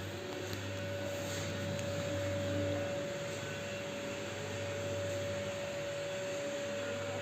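Steady machine hum with a constant whine above it, unchanging.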